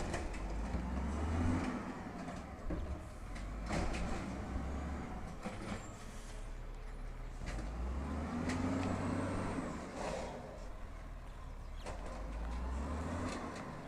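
Peterbilt 320 automated side-loader garbage truck's engine running and rising in speed in three surges, with several sharp knocks and clunks in between.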